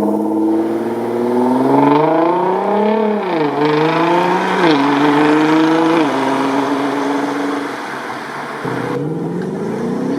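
Ford Mustang's 5.0-litre V8 accelerating hard, the engine note climbing and dropping sharply at two upshifts about three and five seconds in, then holding steady and fading. A new rising engine note starts near the end.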